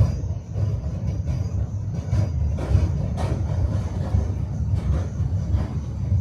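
Tram running along the rails: a steady low rumble with irregular knocks and clacks of the wheels over rail joints, several a second.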